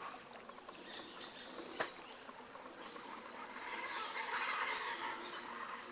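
A chorus of chachalacas calling, faint, swelling about three and a half seconds in. A single sharp click comes a little under two seconds in.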